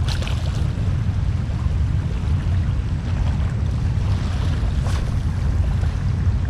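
Steady low rumble of wind buffeting the microphone, over a constant hiss of rushing water from a drainage outflow.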